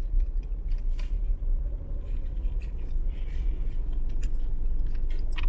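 Car driving, heard from inside the cabin: a steady low road and engine rumble with a few faint clicks.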